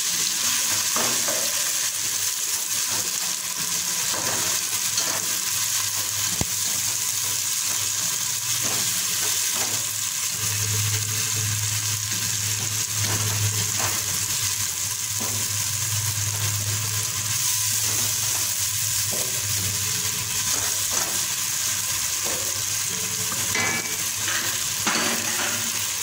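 Chopped tomatoes and onion sizzling in hot oil in a nonstick pot while a wooden spatula stirs them, with scattered scrapes and taps of the spatula against the pot. A low hum comes in for several seconds near the middle.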